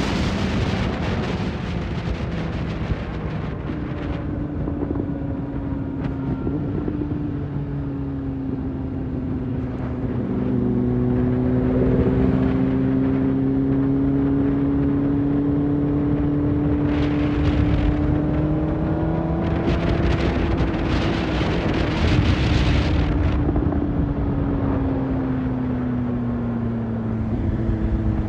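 A vehicle engine running at a steady cruise, its pitch drifting slowly up and down. Wind rushes over it twice past the middle.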